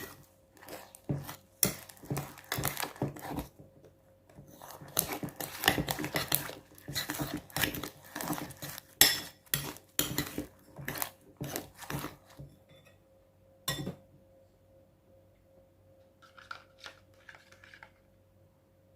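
A utensil clinking and scraping against a bowl while slime is mixed, making many quick, irregular clicks and knocks. The clicks thin out after about twelve seconds, with one more knock shortly after and a few faint ones near the end.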